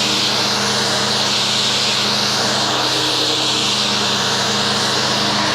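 Pressure washer running steadily: a constant motor-and-pump hum under the hiss of the water spray.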